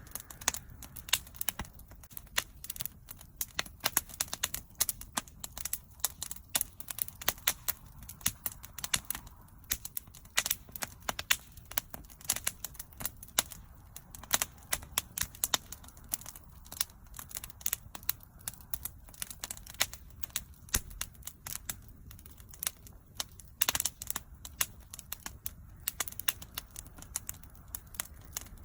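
Wood fire crackling, with dense irregular pops and snaps over a low steady rumble of flames.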